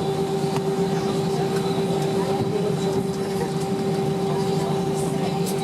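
Steady hum inside the cabin of an Airbus A320 on the ground after landing, the engines and air system running with a constant mid-pitched tone and a fainter higher one, a few light clicks.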